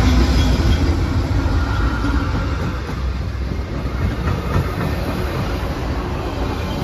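A train hauled by BNSF GE Evolution Series diesel locomotives passing close by. The locomotive's low diesel rumble fades as it goes past, and wheels click on the rails while a passenger car rolls by.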